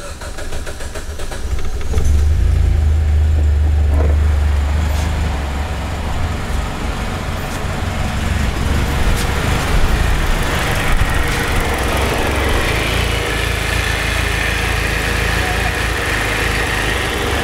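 Mitsubishi Lancer Evolution X's turbocharged 2.0-litre four-cylinder starting up: it comes up to speed over the first two seconds, then runs at idle. This is the first run after the oil pan work, with the fluids still settling and the idle not yet even.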